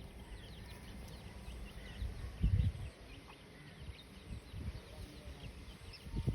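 Birds chirping with many short, high calls, over low rumbling bumps, the loudest about two and a half seconds in.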